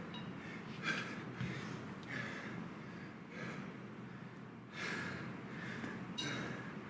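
A man breathing hard from exertion, with short, forceful breaths roughly once a second.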